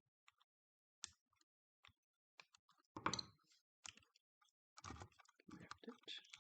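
Scattered small clicks and clacks of plastic and metal parts of a cordless-tool battery pack being handled and lifted during disassembly, with a louder clatter about three seconds in and a busier run of clicks near the end.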